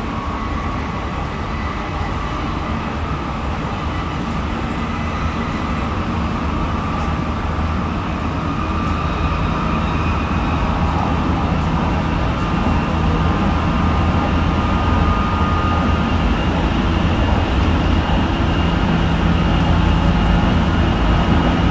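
Tsukuba Express electric commuter train running between stations: steady wheel-on-rail noise with a faint steady high tone over it, growing gradually louder.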